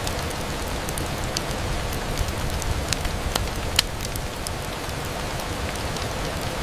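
Steady rain on a window, with a low rumble beneath and scattered sharp clicks of single drops, one louder click a little before the middle.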